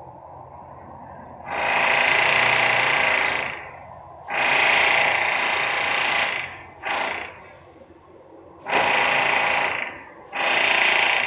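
Industrial power-tool noise in repeated loud bursts, each half a second to two seconds long with short pauses between, over a steady low background hum.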